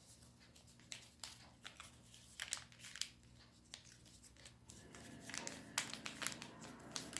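Sheet of origami paper being handled and folded by hand: scattered short crinkles and creasing clicks. Faint music begins to come in during the last couple of seconds.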